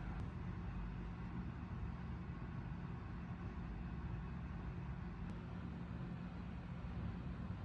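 Steady low rumble of a running vehicle, with an even drone that holds unchanged throughout.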